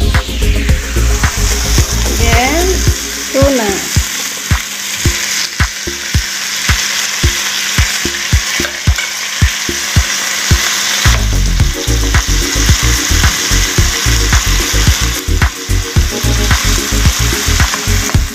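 Tuna, tomato and onion sizzling as they sauté in a nonstick pan, a steady frying hiss, with repeated knocks and scrapes of a wooden spatula stirring.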